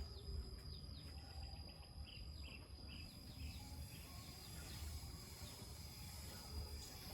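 Small birds chirping in quick short falling notes, thinning out after about five seconds, over a steady high-pitched insect drone and a low rumble.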